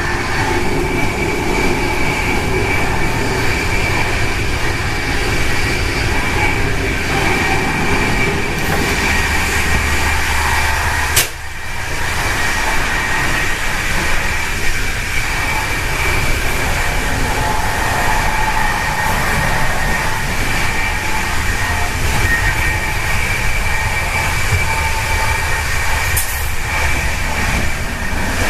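Czech InterCity express train running at speed, heard from inside a passenger carriage: a steady rumble of wheels on rails with a steady high whine over it. A single sharp click sounds about eleven seconds in.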